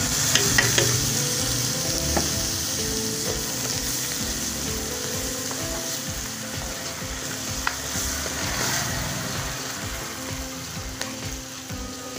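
Spices, chopped tomatoes and green chillies sizzling in hot ghee and fried onions in a stainless steel pan, the hiss jumping up as they go in and slowly easing off. A metal spoon clicks and scrapes against the pan as the mixture is stirred.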